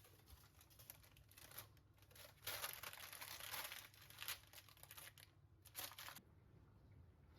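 Faint crinkling and rustling of something being handled, in several short spells, stopping about six seconds in.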